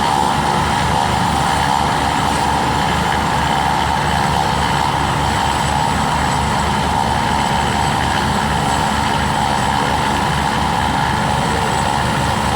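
Helicopter running with a steady, fast beat of the rotor blades and a constant whine.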